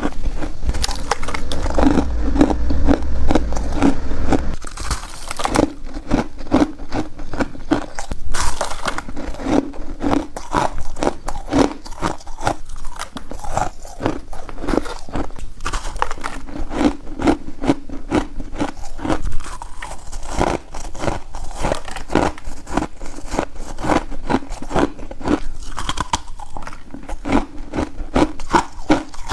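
A person chewing refrozen crushed ice: dense, continuous crunching, bite after bite.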